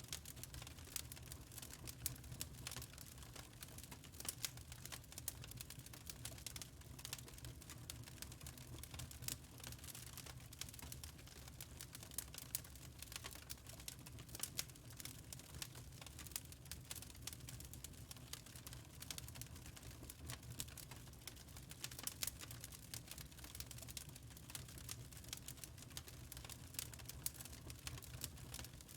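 Wood fire crackling steadily, with dense irregular snaps and pops over a low, steady rumble.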